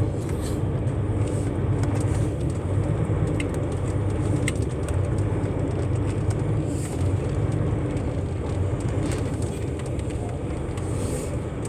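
Truck's diesel engine running steadily, heard from inside the cab as a low, even hum.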